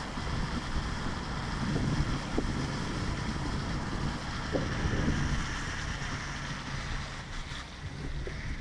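Heavy rain falling in a steady hiss, with wind buffeting the microphone in uneven low rumbles.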